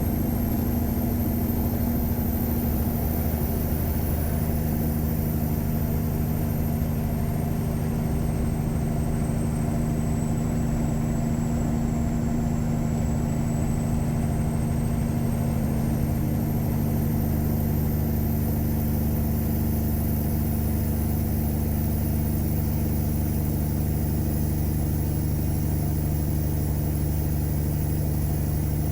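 Tuned Caterpillar 3406E inline-six diesel in a Freightliner Classic truck running steadily under way, its engine note shifting a little about halfway through. A faint high whine slowly rises and falls over it.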